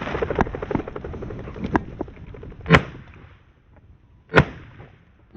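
Two shotgun shots about a second and a half apart, fired at flushing quail.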